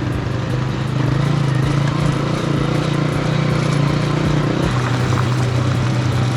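Honda 125 motorcycle's single-cylinder four-stroke engine running with a rapid, even beat as the bike is ridden; its pitch eases a little lower about two-thirds of the way through.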